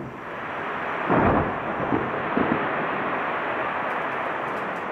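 Fireworks shells bursting: one loud boom about a second in, then two smaller ones, over a steady rushing noise that slowly fades as the display ends.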